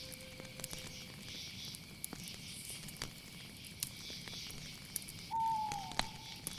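Night-time nature ambience: a steady high chorus of insects with scattered sharp clicks and crackles. A brief whistled call slides down in pitch about five seconds in and is the loudest sound.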